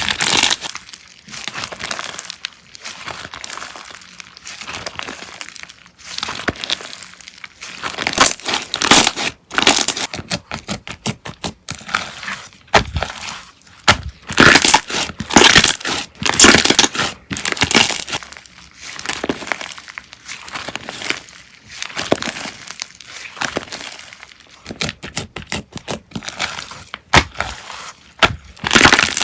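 Slime being squished and pressed by hand, giving irregular bursts of crunching and crackling pops with short pauses between them.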